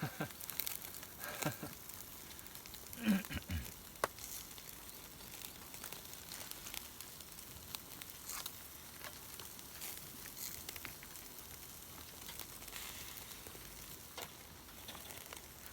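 Wood fire crackling under a camp grill, with food sizzling over it: a steady faint hiss dotted with sharp pops. A brief low sound about three seconds in.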